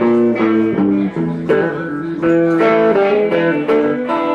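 Chicago blues played live, with electric guitar picking a run of short notes between the sung lines.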